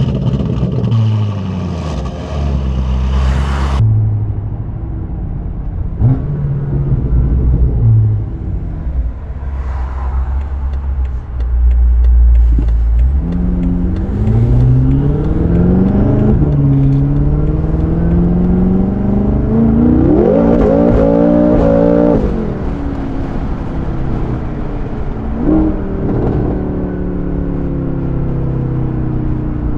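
BMW F10 M5 Competition's twin-turbo V8 through an Akrapovic exhaust, accelerating: the revs climb twice and drop back sharply at each upshift, with steadier running between and after.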